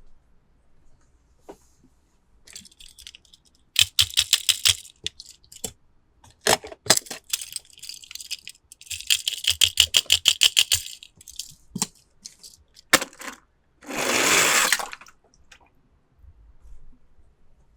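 Small plastic toy cars and their packaging being handled, giving quick rapid trains of small clicks and rattles, scattered single clicks, and a short rustling burst near the end.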